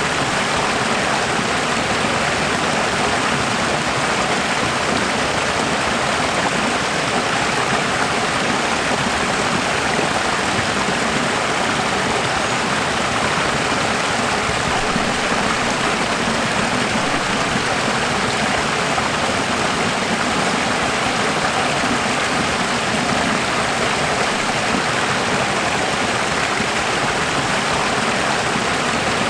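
Running water: a steady, even rush of flowing water, unchanging throughout.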